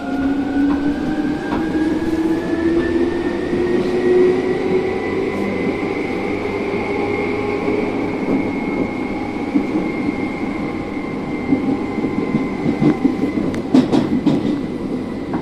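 Seibu Ikebukuro Line electric train pulling away from a station, heard from inside the carriage: its traction motors whine, rising steadily in pitch for the first half and then holding level over the rumble of the wheels. Near the end the wheels click several times over rail joints.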